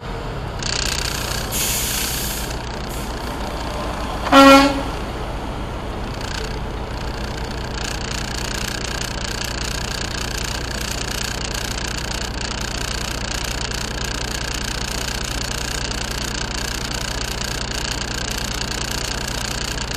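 Semi-truck diesel engine idling steadily. Two short air hisses come in the first couple of seconds, and one brief horn toot about four and a half seconds in.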